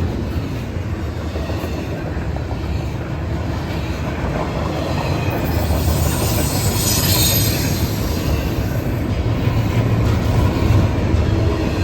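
Norfolk Southern freight train cars rolling past, a steady rumble of wheels on the rails. A high-pitched wheel squeal swells about halfway through and fades again.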